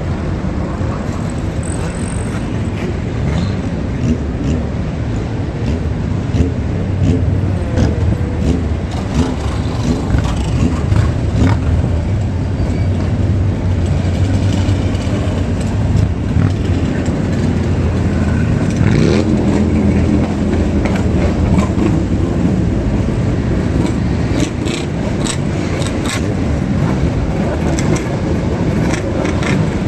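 Car engines and exhausts running, with revs rising and falling as several cars drive by, and scattered sharp clicks and pops.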